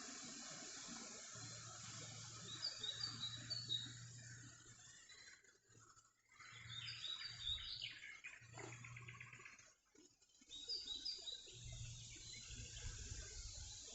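Small birds chirping in several short, quick series of high calls, over a faint low rumble like wind on the microphone.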